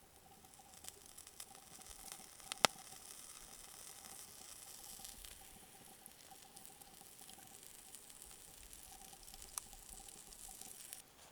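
Bacon-wrapped sausage on a stick sizzling over a campfire, a steady hiss of cooking fat with scattered crackles and one sharp pop about two and a half seconds in.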